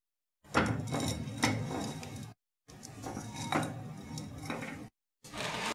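Metal pot and strainer clattering while chicken stock is strained, with a few sharp clinks. The sound comes in three stretches that start and stop abruptly, with brief dead silences between them.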